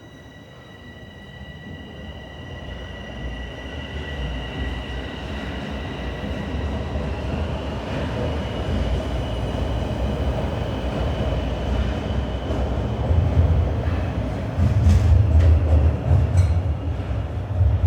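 Sheppard subway train running, its low rumble building steadily louder, with a thin steady high whine that fades out by the middle. A few sharp clicks and knocks sound near the end.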